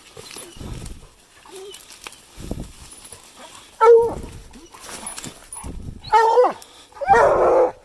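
Hounds barking in short, separate calls with falling tails, a few seconds apart; the last, near the end, is the loudest and longest.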